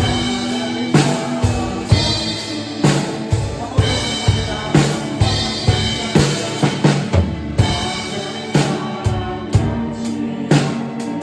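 Drum kit played along to a recorded worship song: kick and snare keep a steady beat under cymbals, with quicker fills about six seconds in and again near the end.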